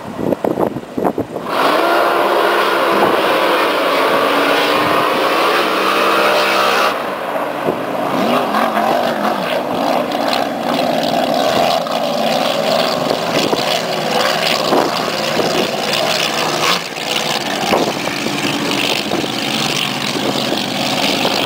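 Racing boat engines running at high speed on the water, a loud continuous engine note whose pitch bends as the boats run past, turning rougher and noisier about seven seconds in.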